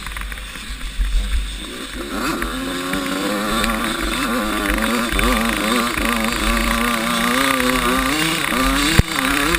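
Small two-stroke 85cc motocross bike engine running, its pitch rising and falling as the throttle is worked, over a constant deep rumble. A single sharp knock comes near the end.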